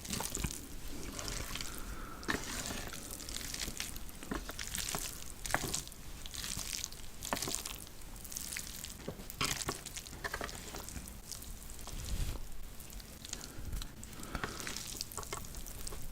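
Close-miked eating of saucy spicy Korean noodles: irregular wet slurps, mouth smacks and chewing clicks.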